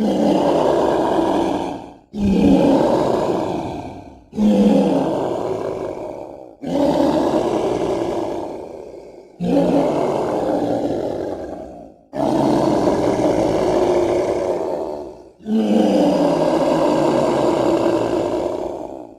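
Seven designed dinosaur roars for the burrunjor, a legendary theropod-like creature, one after another. Each starts suddenly, sinks in pitch and fades out over two to three seconds.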